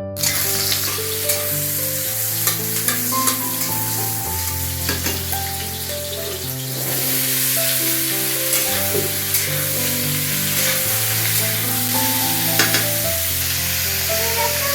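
Food frying in hot oil: a steady sizzle with frequent sharp crackles, which starts suddenly. Background music with a gentle keyboard melody plays underneath.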